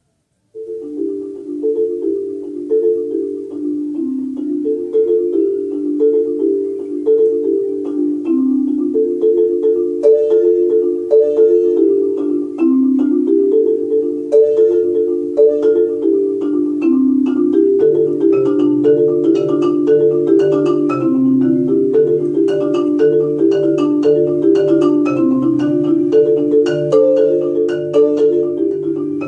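Solo marimba played with four mallets: quick repeated notes rolling through rocking chord patterns. A low bass line joins about two-thirds of the way in, and the playing grows fuller.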